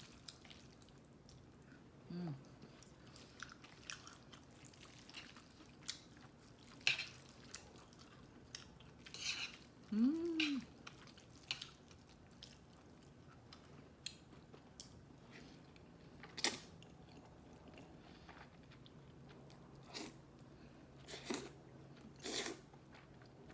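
Quiet eating sounds: scattered mouth clicks and chewing smacks from a person eating noodles and fried food, with an occasional light clink of cutlery, and a short hum twice.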